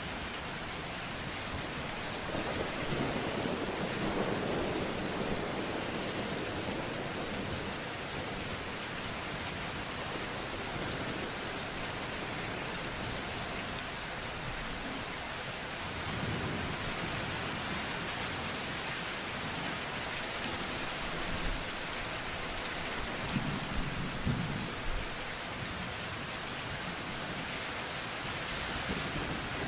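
Steady rain with low rolls of thunder rumbling a few times.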